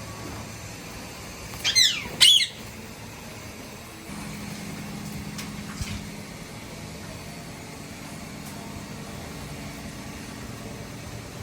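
Indian ringneck parrot giving two loud, shrill squawks in quick succession about two seconds in, over a steady background hiss.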